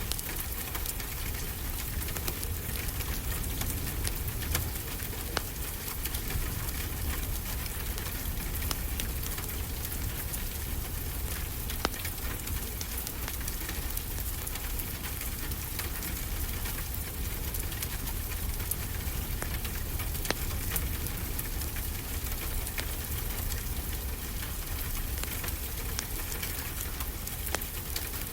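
Steady rain falling, with a low rumble underneath, and the occasional sharp crackle or pop of a wood fire in a fireplace.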